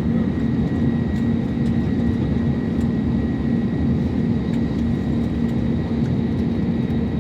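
Passenger airliner's engine and airflow noise: a steady, unchanging roar with a low hum and a faint high whine.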